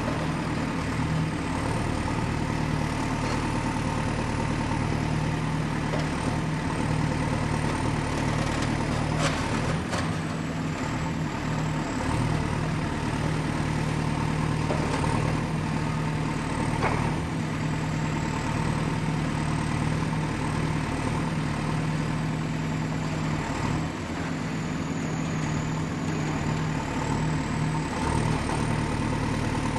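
Excavator's diesel engine running steadily under load, with a thin high whine that slowly wavers in pitch and a couple of short knocks partway through.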